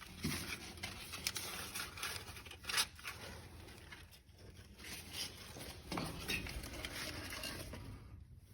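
Freshly lit fire crackling in a fireplace, with irregular small pops and several louder snaps.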